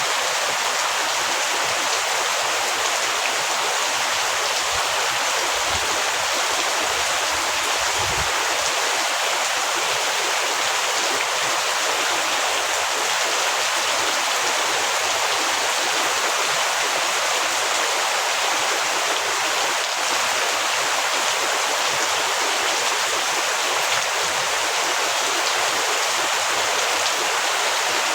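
Heavy rain falling in a steady, even hiss, with no let-up.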